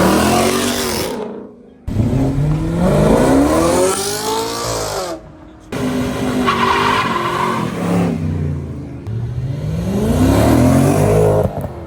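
Car engines revving hard and accelerating, their pitch climbing and dropping as they shift, in three short clips cut together, with a brief tyre squeal in the middle one.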